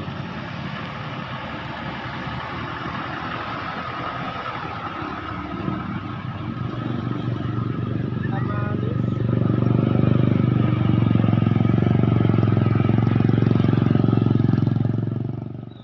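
Truck engine running with a steady low hum, growing louder over several seconds, then cutting off abruptly near the end.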